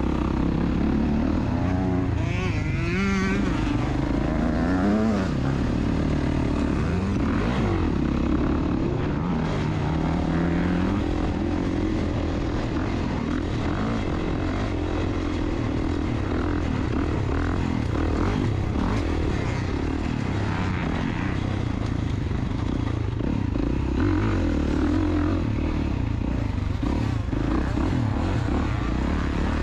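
Two-stroke dirt bike engine running, its pitch rising and falling with the throttle for the first ten seconds or so, then a steadier rumble.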